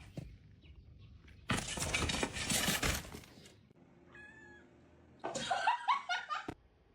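A noisy clatter lasting about two seconds, then a few short cat meows near the end.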